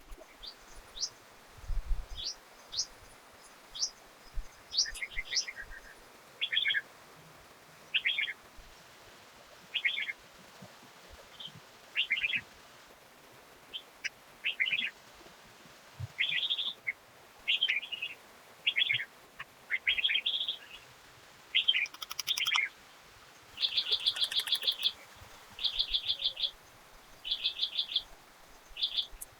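Birds singing: short chirped phrases repeated every second or two. Later come rapid trilled bursts, each about a second long.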